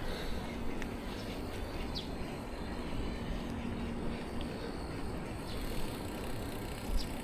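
Steady wind and road rumble from riding a bicycle, picked up on the bike camera's microphone, with a faint hum and a few light clicks.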